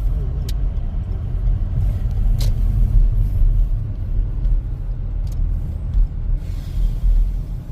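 Car driving, heard from inside the cabin: a steady low rumble of engine and tyres on the road, with a few faint clicks.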